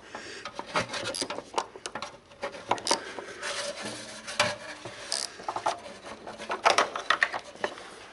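Hand tools working on the car's underside: irregular metallic clicks and knocks mixed with scraping and rubbing, as rusty bolts and cable fittings are worked loose.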